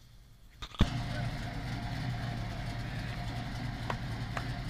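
Idling car engines of the General Lee Dodge Charger and a sheriff's car, a steady low hum, after a nearly silent first moment that ends in a sharp click. Two faint ticks come near the end.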